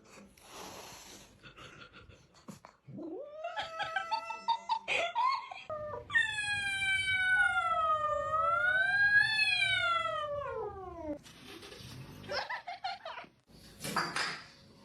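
A cat yowling: a shorter cry, then one long wavering yowl of about five seconds that drops in pitch at its end, followed by a few brief noisy rushes.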